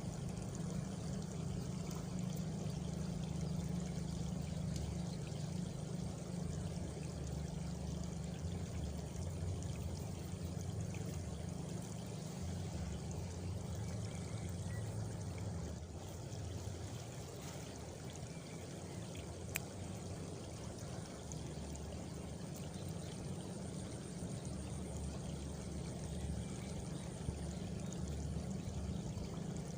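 Steady countryside ambience: a continuous rushing noise like flowing water, with a faint high cricket trill about three quarters of the way through.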